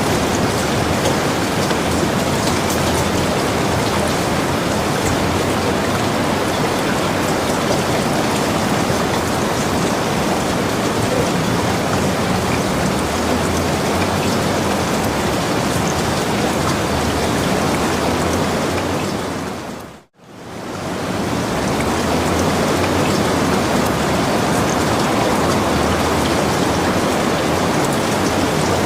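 Steady, heavy rain falling, an even rushing hiss with scattered drop ticks. About two-thirds of the way through it briefly fades to near silence and comes straight back.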